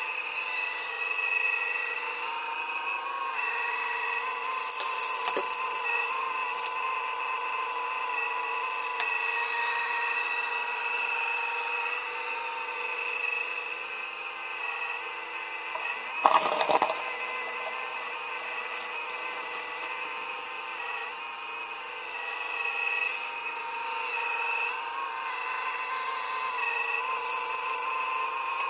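Earthmoving machine running steadily with a whine while loading trucks, with a light knock about five seconds in and a loud clank about sixteen seconds in.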